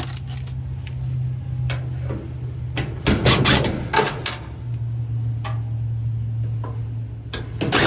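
Scattered clicks and a brief spell of clattering knocks about three seconds in, from parts and panels of a dryer being handled, over a steady low hum.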